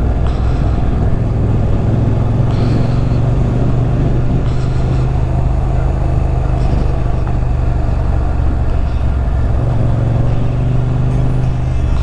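Motorcycle engine running steadily while riding, its low engine note holding fairly even, with wind rumble on the microphone.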